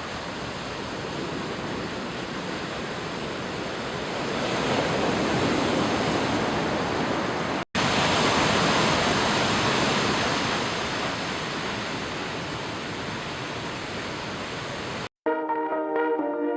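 Sea waves washing onto a beach, a rushing that swells and eases, broken by a brief silent cut about halfway. Near the end the surf stops and music begins.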